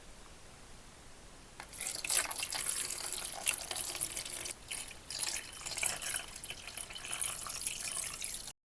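Water running from a tap and splashing unevenly. It starts about one and a half seconds in and cuts off abruptly near the end.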